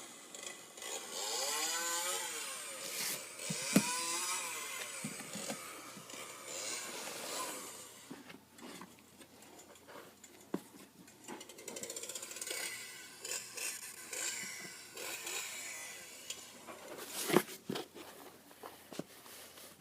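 Handling noise while a Halloween mask is unboxed: irregular rustling and rubbing close to the microphone, with scattered clicks and two sharp knocks, one about four seconds in and one near the end.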